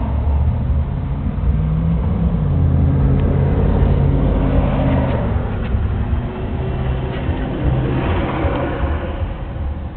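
A car engine running, its pitch shifting up and down a few times.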